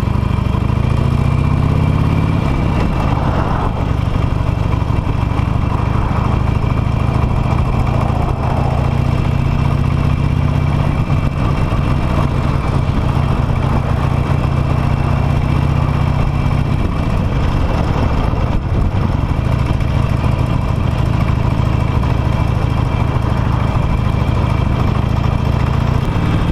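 Harley-Davidson Nightster's V-twin engine idling steadily while stuck in traffic. Its revs rise briefly over the first couple of seconds, then settle.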